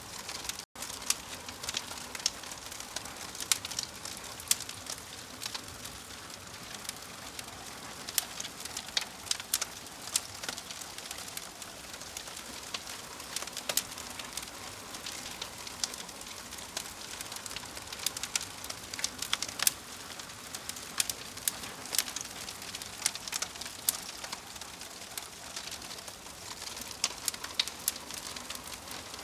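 Log fire crackling in a fireplace: a steady hiss with frequent sharp pops and snaps. It cuts out for an instant just under a second in.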